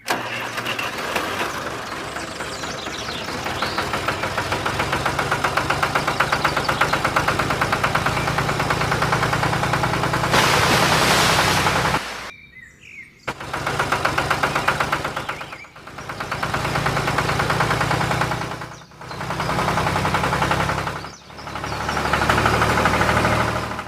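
Small electric motor of a homemade miniature model tractor running with a fast, even buzzing rattle, straining as it tries to pull out of mud. It cuts out briefly about twelve seconds in, then runs in repeated surges of two to three seconds with short dips between them.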